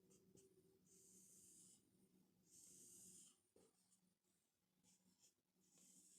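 Very faint writing: a marker scratching across a whiteboard in two runs of about a second each, with a third starting at the very end, over a low steady hum.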